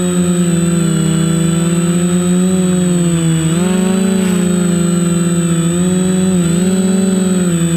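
FPV quadcopter's electric motors and propellers buzzing, the pitch stepping up and down as the throttle changes, over a steady high-pitched whine.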